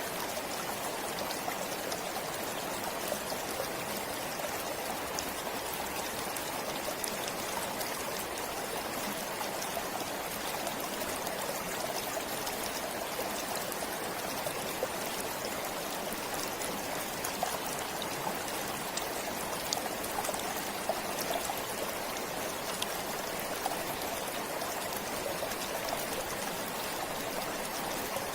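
A forest stream flowing steadily, with a constant rush of water and small scattered splashes and trickles over it.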